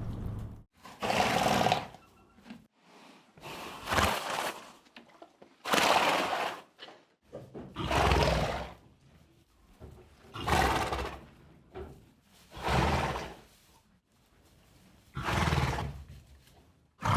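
A horse vocalising in about seven short, noisy bursts, roughly two seconds apart.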